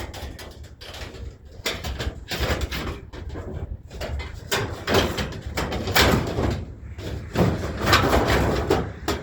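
Scrap and junk being handled and loaded onto a truck: a run of scraping, clattering knocks and bangs, loudest from about the middle to near the end.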